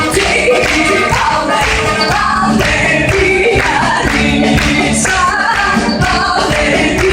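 Live band music with sung vocals: the orchestra playing a Macedonian folk song.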